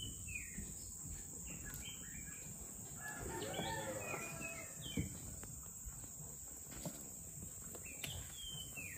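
A bird gives a drawn-out call about three seconds in, over a steady high insect drone and scattered short chirps. A single sharp knock comes about five seconds in.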